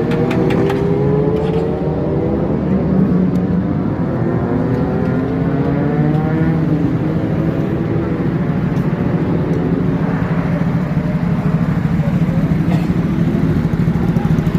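Superbike engines running: one climbs steadily in pitch over the first six seconds or so as it accelerates, above a steady low engine drone.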